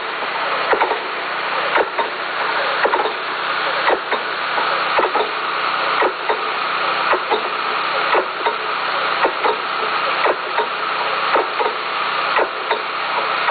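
A machine running steadily, with frequent irregular clicks and knocks, about one or two a second.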